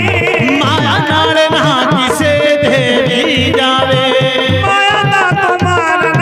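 Instrumental interlude of a Punjabi devotional bhajan: an ornamented lead melody over a steady hand-drum beat, played loud through a PA system.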